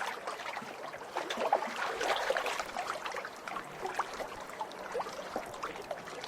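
Small lake waves splashing and lapping against the shore, a continuous irregular patter of little splashes and trickles.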